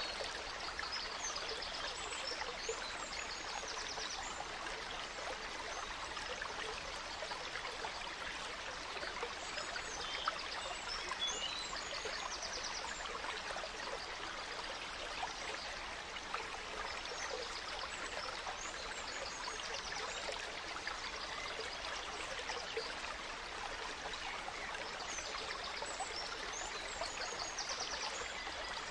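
Gentle stream flowing and trickling steadily, with forest songbirds singing high chirps and quick trills that come back every several seconds.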